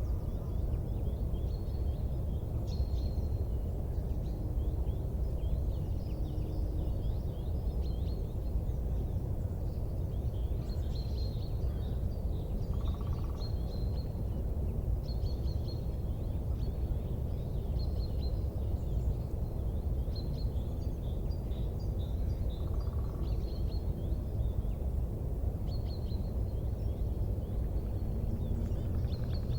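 Birds chirping, with many short high chirps scattered throughout, over a steady low rumble.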